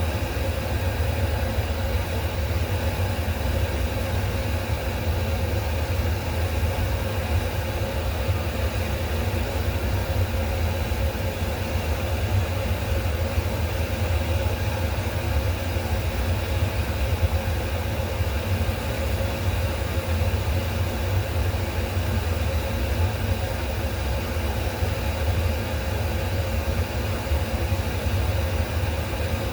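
A steady, unbroken low mechanical hum, like a running motor, with a faint steady tone above it.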